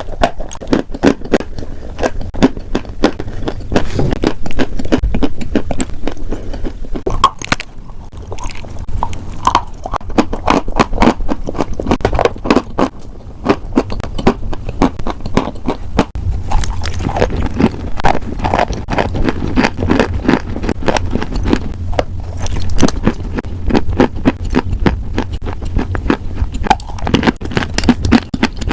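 Close-miked crunching: something brittle being bitten and chewed in a dense, continuous crackle of sharp clicks, with no pauses.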